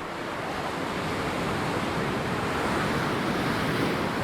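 Ocean surf: waves breaking and washing up the shore, the rush of water swelling over the first three seconds or so.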